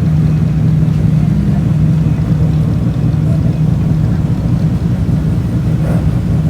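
A car engine running steadily with a constant low hum.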